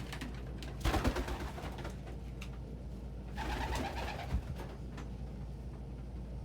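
Domestic pigeons cooing, with a brief rustling burst about a second in, over a low steady hum.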